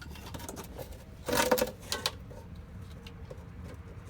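Flux-core wire welder arc crackling in one short burst about a second and a half in, as for a tack weld on the glass-pack muffler's exhaust pipe, followed by a few sharp clicks.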